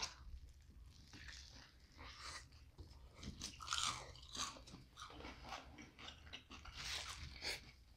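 Close-up chewing and crunching of fast food: bites of a stacked burger and fried sides, in soft, irregular crackles and wet mouth sounds.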